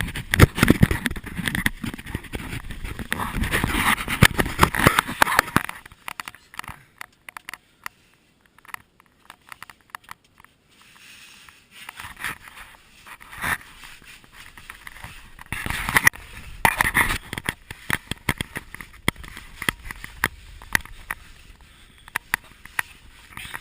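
Irregular scraping, rustling and clicks of clothing and gear as people move through a cave passage. It is dense for the first few seconds, goes nearly quiet for several seconds, then picks up again, sparser.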